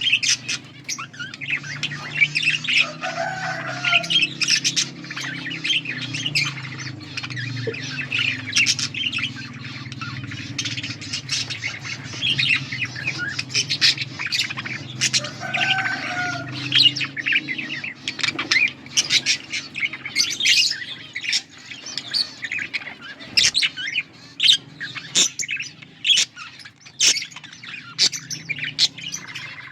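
Budgerigars chirping and chattering continuously in rapid, high-pitched warbles, over a steady low hum that fades in the last few seconds.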